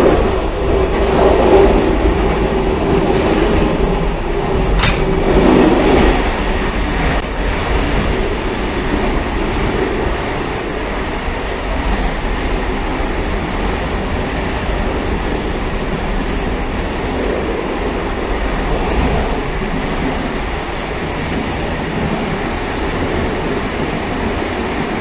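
Railcar running along the track: a steady rumble and rolling noise, with a hum in the first few seconds that fades and a single sharp click about five seconds in.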